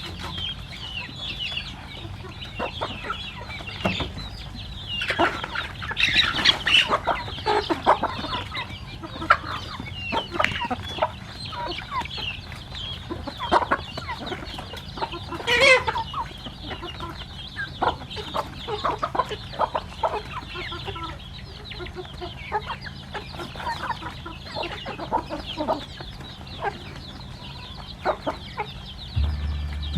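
A flock of chickens clucking, with many short, irregular calls that grow busier a few seconds in and one louder call around the middle.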